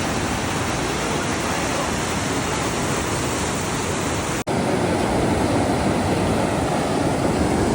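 Steady rush of high, fast-flowing river water swollen by heavy rain. It cuts out for an instant about halfway through, then carries on.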